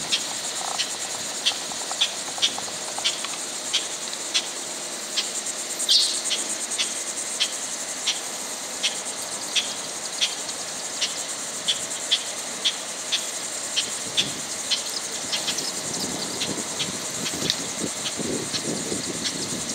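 Steady high insect buzz with a short high chirp repeating about twice a second, one of them longer and louder about six seconds in.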